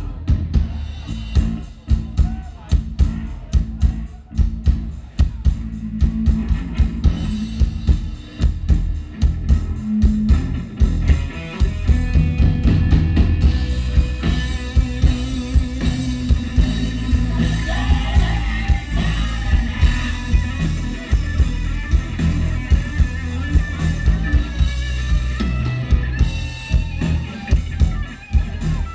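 Live band playing: a steady drum-kit beat with bass and guitar, the music filling out and getting louder about twelve seconds in.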